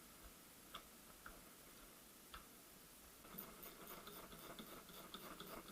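Faint clicks of small metal gearbox parts and hand tools being handled, then a run of quick, light, even ticks from about three seconds in.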